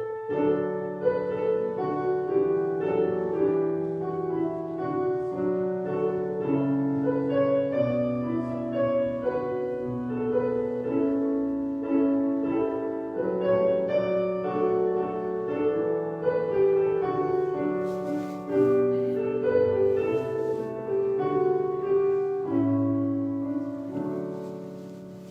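Solo piano playing a slow chordal piece; it starts abruptly and fades out near the end.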